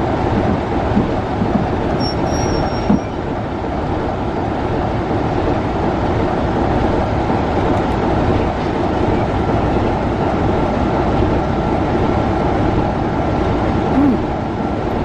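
Heritage railway passenger coaches rolling slowly past close by: a steady rumble of steel wheels on the rails, with a short high squeal about two seconds in.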